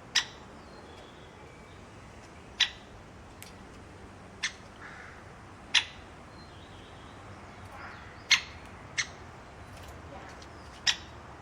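A bird giving seven short, sharp calls at uneven gaps of one to two and a half seconds, over a steady background hiss.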